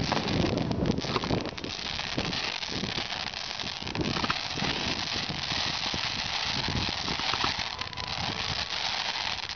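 Niagara Falls firework burning: a long curtain of falling sparks giving off a steady hiss with dense crackling, with heavier low rumbling in the first couple of seconds.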